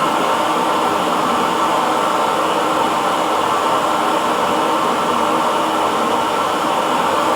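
Hair dryer running steadily, a constant whooshing blower noise with a faint hum.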